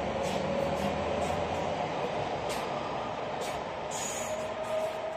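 Electric suburban commuter train passing at speed: a steady rumble of wheels on rails, broken by irregular sharp clicks as the wheels cross rail joints. A thin steady whine grows stronger near the end as the last car moves off.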